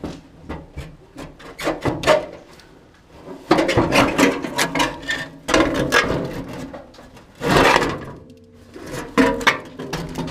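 Irregular scraping, rubbing and clattering of hand work, with a louder noisy scrape about seven and a half seconds in.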